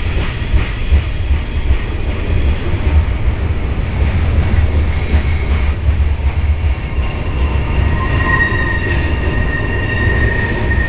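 Freight cars of a BNSF train (boxcars, autoracks and tank cars) rolling past close by, a steady low rumble of steel wheels on rail. About eight seconds in, a high, steady wheel squeal comes in.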